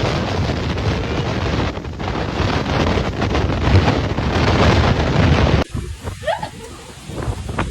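Strong wind buffeting the microphone: a loud, continuous rushing rumble. It cuts off abruptly about five and a half seconds in, giving way to quieter gusty wind with a few short high-pitched sounds.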